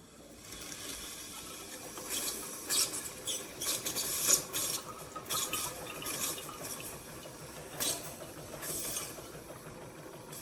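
Single-serve K-Cup coffee maker brewing, with hissing and irregular sputtering as liquid spurts into the cup. The sound starts about half a second in.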